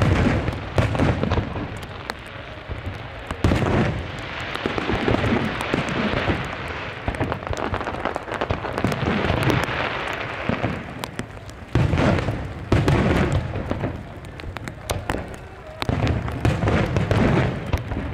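Large aerial fireworks bursting: deep booms one after another, with a long stretch of dense crackling between them.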